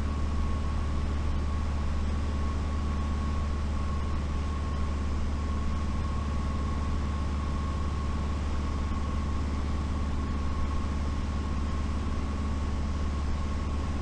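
Steady drone of a light airplane's engine and propeller heard in the cockpit during a landing approach, a low hum with a faint constant whine above it.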